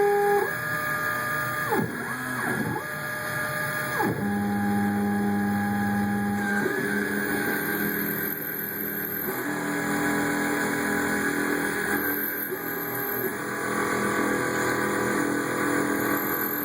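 CNC mini-mill running a cut: the spindle motor hums steadily while the stepper-driven axes whine, their tones dropping and rising sharply twice early on and then stepping to new pitches every few seconds as the feed moves change.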